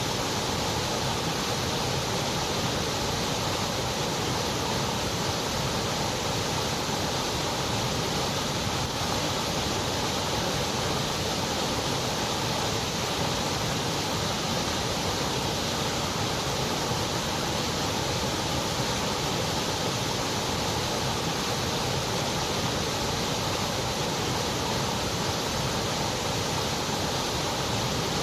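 Continuous white noise: an even, steady hiss with no change in level or pitch.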